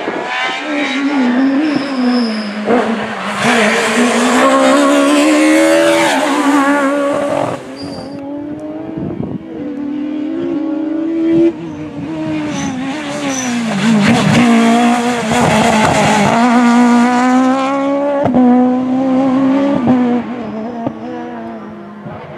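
Peugeot 306 Maxi rally car's naturally aspirated four-cylinder engine revving hard and accelerating through the gears, its pitch climbing and dropping at each shift. It eases off in the middle, then pulls hard again and fades near the end.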